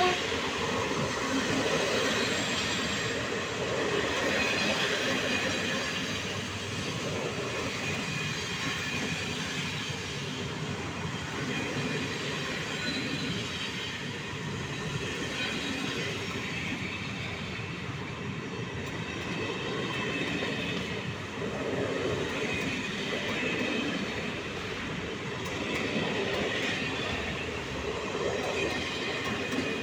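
Passenger coaches of a moving train rolling past close by: a steady rumble of wheels on rails that swells and eases, with faint high wheel squeal at times.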